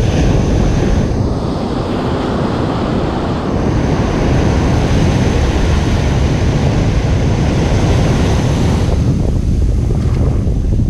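Ocean surf breaking and washing on a beach, a loud continuous rush with a deep rumble underneath and wind buffeting the microphone. The wash swells about a third of the way in and eases near the end.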